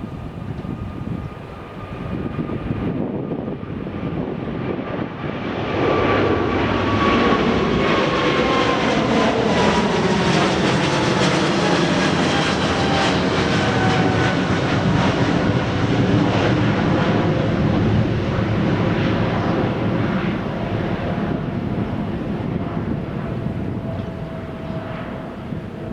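Jet airliner's engines at takeoff power passing by: the noise builds over several seconds, stays loud for about twelve seconds, then eases off, while the engine tones slide down in pitch as it goes past.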